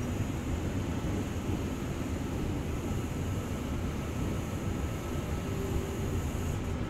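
Sydney Trains OSCAR (H-set) electric intercity train pulling out past the platform: a steady rumble of wheels and running gear. A low hum comes in near the end.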